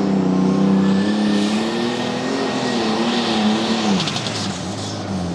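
Super Stock pulling tractor engine running hard under load during a pull, with a thin high whine above it. The engine pitch wavers, then drops about four seconds in.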